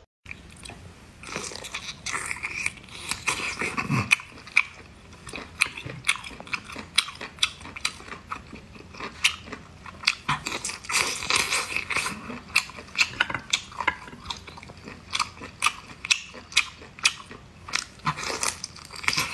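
A person biting and chewing cooked octopus tentacle up close, with many short sharp clicks and mouth smacks at an irregular pace.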